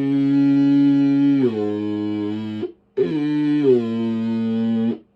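A man's voice holding a long, steady note into the CB microphone, twice, each note stepping down in pitch partway through. The sustained note modulates the keyed transmitter so the watt meter can show peak power.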